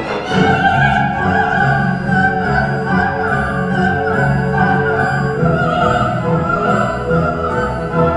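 Coloratura soprano singing a wordless vocalise over an orchestra, holding long high notes with strings beneath.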